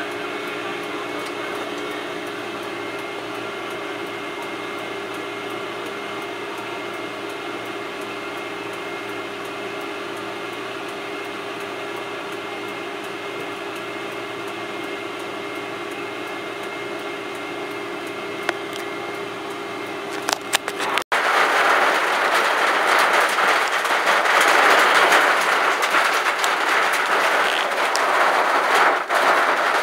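Steady drone of a vehicle on the move, heard from inside the cabin, with a few faint steady tones in it. About twenty seconds in it cuts off abruptly and a louder, even rushing noise takes over.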